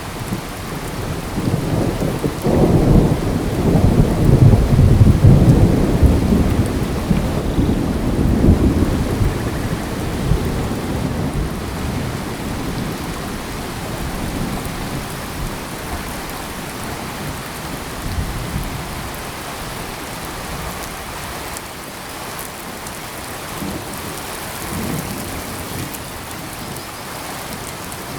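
Steady rain with a long rumble of thunder that builds a couple of seconds in, peaks, and dies away by about ten seconds in. Fainter rumbles return twice later over the constant hiss of the rain.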